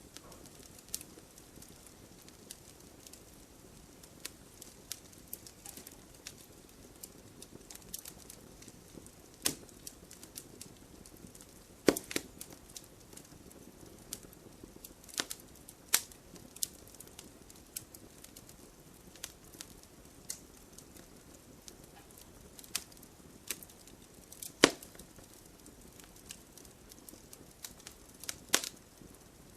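Wood fire burning: irregular crackles and sharp pops from burning firewood over a faint low hiss, with a few much louder snaps scattered through.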